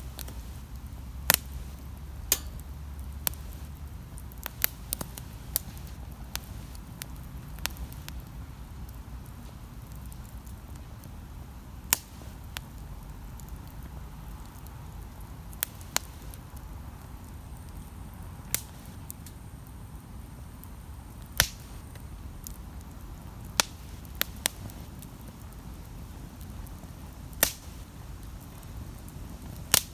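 Wood campfire burning with a low steady rumble, crackling and popping in sharp irregular snaps every second or so.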